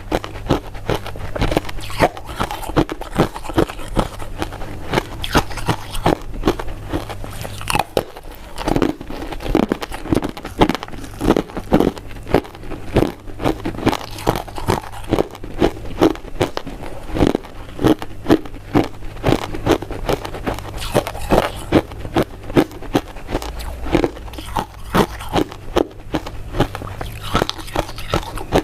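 Close-miked eating of powder-coated mint sweets: biting and chewing, a steady run of sharp crunching clicks several times a second.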